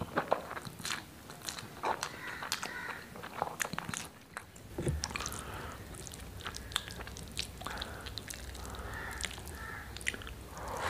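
Close-miked chewing of a mouthful of rice and chickpea curry, with many wet mouth and lip clicks, and fingers squishing through the rice on the plate. A low steady hum comes in about halfway.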